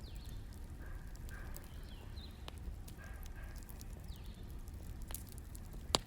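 Wood fire crackling: a low steady rumble with a few sharp pops, the loudest near the end.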